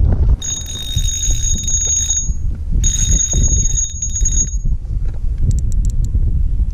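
Wind buffeting the microphone, with two high, ringing, buzzing bursts of nearly two seconds each, one after the other, and a few faint clicks after them.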